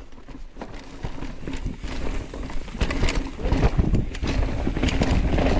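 Mountain bike starting down a rough, tight dirt singletrack: tyres rolling over dirt and roots with the frame and chain rattling in a stream of quick knocks and clicks. It grows steadily louder as the bike picks up speed.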